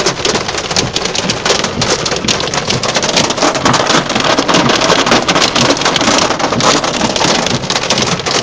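Heavy rain pouring down in a flash-flood storm: a dense, loud, crackling patter of drops hitting hard surfaces, steady throughout.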